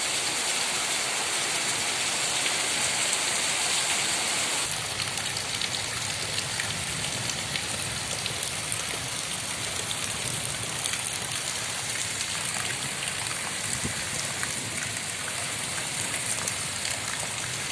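Heavy rain falling: a steady, dense hiss with the patter of drops. About five seconds in the sound shifts and becomes fuller and lower.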